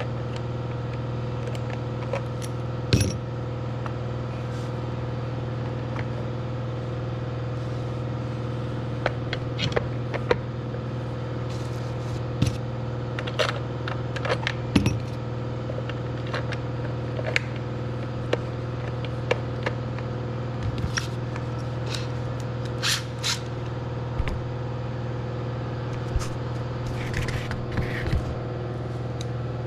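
Steady low mechanical hum with scattered sharp metallic clinks and knocks, like metal parts or tools being handled.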